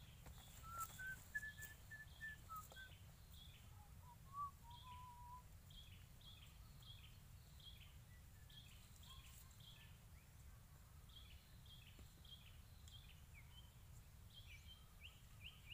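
Faint birdsong over a low background rumble: a bird repeating short, falling chirps two or three times a second, with a few clear whistled notes in the first five seconds. A few light clicks come about a second in.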